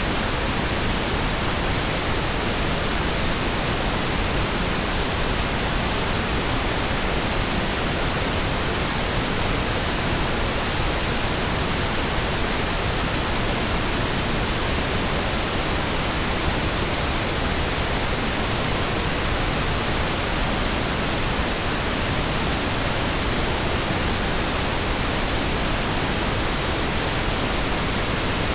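Pink noise: steady, even hiss spread across all pitches, with no changes or interruptions.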